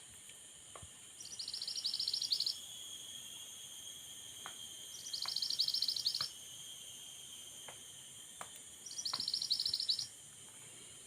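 A bird calls three times, each a loud, rapid, rattling high trill lasting just over a second, about four seconds apart, over a steady high-pitched background drone.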